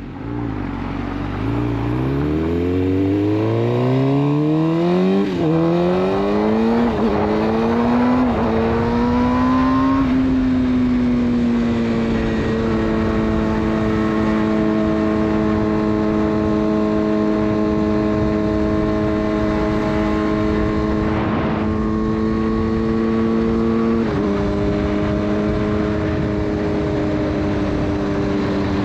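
Suzuki GSX-R600 inline-four with a full de-catted Yoshimura exhaust accelerating hard, its revs climbing with three quick upshifts about a second and a half apart. It then settles into a steady cruise, and the engine note shifts abruptly once near the end.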